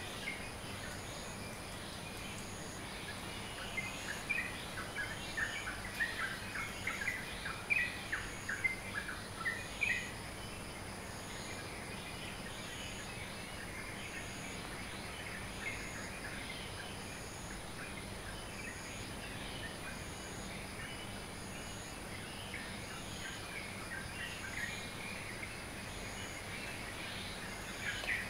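Dawn chorus of many small birds chirping, busy for the first ten seconds and then thinning to scattered calls. A steady background hiss runs underneath, and a faint high note repeats about every second and a half.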